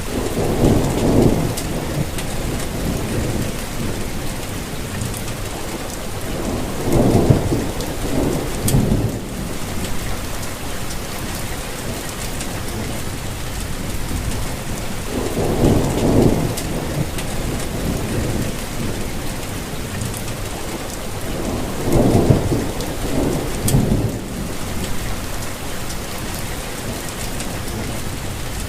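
Steady rainfall hissing on leaves and ground, with four low rumbles of thunder, each lasting a second or two, spread through it.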